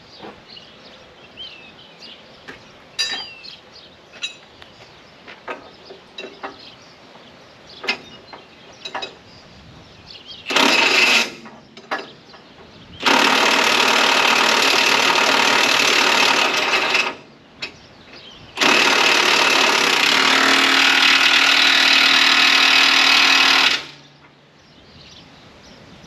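Impact wrench hammering bolts tight on a tractor loader's mounting bracket, in three runs: a short one about ten seconds in, then two longer runs of four to five seconds each. Light clanks and knocks of handling tools and parts come before it.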